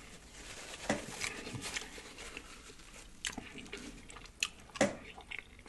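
Close-miked chewing and lip smacking on a soft pupusa, with scattered short wet mouth clicks.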